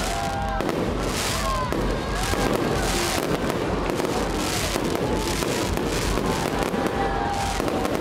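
Aerial fireworks bursting over and over, a sharp crackling burst about once a second, with people's voices in the crowd between them.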